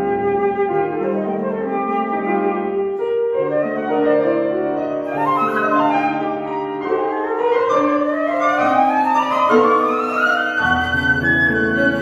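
Flute and piano playing classical music together: the flute sings over sustained piano chords, and about seven seconds in an ascending run climbs to a high held flute note near the end.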